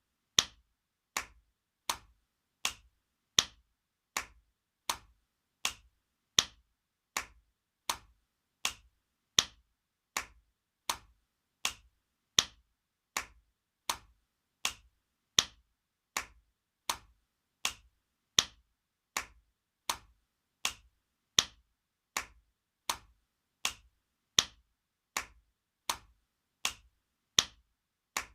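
Spanking sound effect: sharp slaps repeating steadily, about four every three seconds, with every fourth slap louder.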